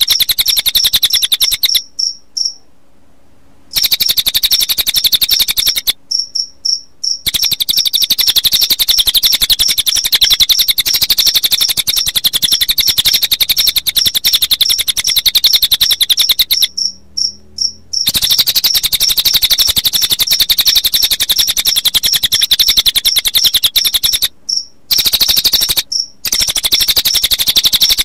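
Recorded cililin bird song mixed with cricket chirping, looped as a bird-training track: a loud, high-pitched, rapidly pulsing trill that keeps going with a few short breaks, about two, six, seventeen and twenty-five seconds in.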